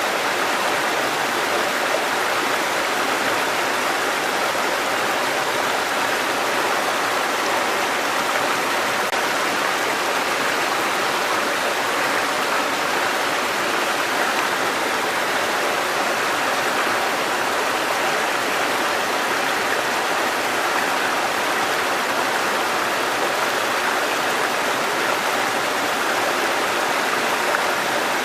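Mountain stream water cascading over rocks: a steady, even rush of running water.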